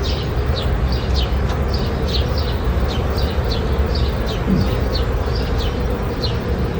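Honeybee swarm buzzing as a steady hum, with a small bird chirping over it in quick short notes, about three a second, and a low rumble underneath.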